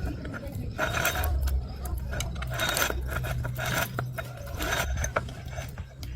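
Workshop mechanical noise: repeated clicks and short rasping scrapes over a low steady hum.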